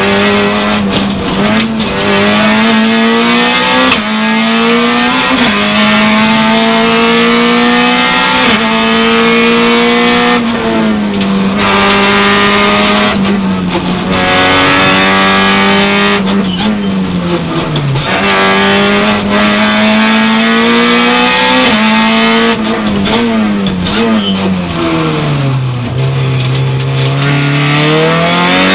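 Peugeot 106 S16's 16-valve four-cylinder engine, heard from inside the cabin, driven hard at rally pace. It revs up through quick gear changes. About halfway and again near the end the pitch falls away under braking and downshifts, then climbs back up.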